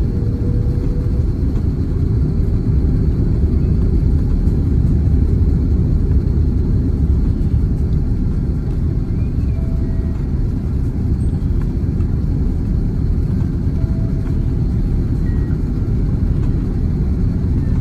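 Steady low rumble of cabin noise inside an Airbus A330-300 airliner in flight, from its engines and the air rushing past the fuselage.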